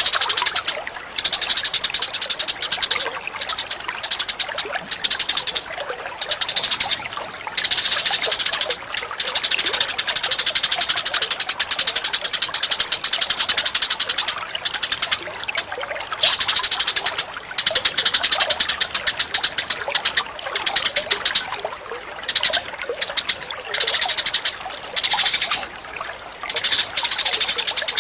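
Birds chattering in a rapid, high-pitched rattle, in bursts of one to three seconds broken by short gaps.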